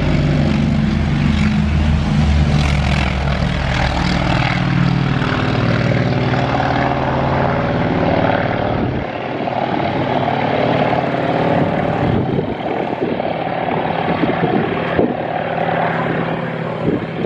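A WWII fighter's piston engine and propeller running at power. The deep engine tones fade about halfway through, leaving a higher propeller and engine noise as the aircraft moves away.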